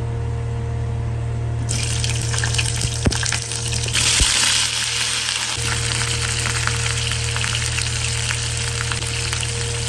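Hot oil sizzling in a nonstick frying pan. About four seconds in, quartered onions and tomatoes are tipped into the oil and the sizzle jumps louder, with a couple of light knocks, then settles into steady frying.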